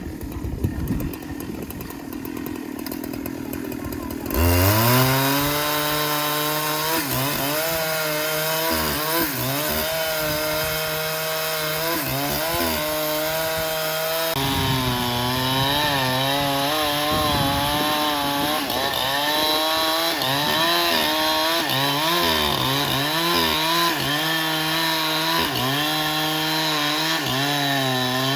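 Sawmill saw cutting through a black teak log. After a few seconds of lower machine noise, the saw comes in loudly about four seconds in and runs on with a pitch that wavers up and down under the load of the cut.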